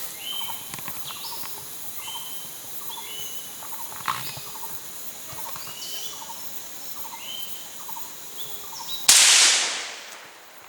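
Short bird calls repeating steadily in the jungle. About nine seconds in, a sudden loud crack that dies away over about a second.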